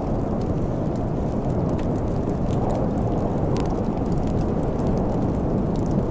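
Steady low rumbling wind of a snowstorm, with scattered sharp crackles and pops from a wood fire.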